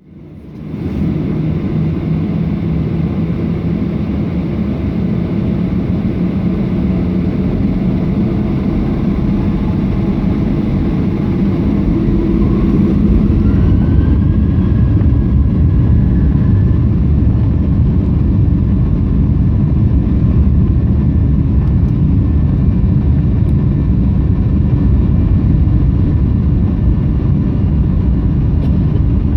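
Ryanair Boeing 737 jet engines running at takeoff power during the takeoff run: a loud, steady noise that comes up within the first second, with the low rumble growing heavier about halfway through and a faint rising whistle at that point.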